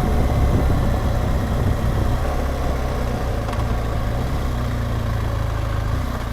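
BMW R1200GS Adventure's flat-twin boxer engine running steadily as the motorcycle rides along, a low even rumble.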